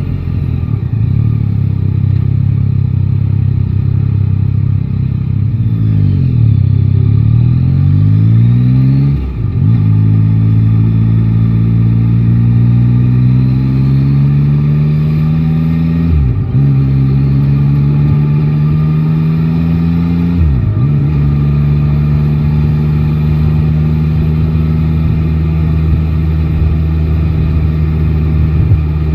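Yamaha Tracer 9 GT's inline-three engine, which drops in pitch and picks up again about six seconds in, then accelerates up through the gears. Its pitch rises in each gear and dips sharply at three upshifts before settling to a steady cruise.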